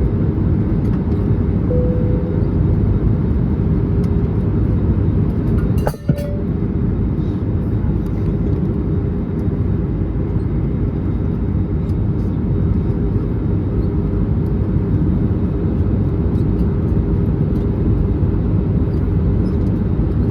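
Steady cabin noise of an Airbus A321neo in descent, heard inside the cabin: a deep rush of airflow and engine hum with a faint steady tone over it. About six seconds in there is one brief click with a momentary drop in level.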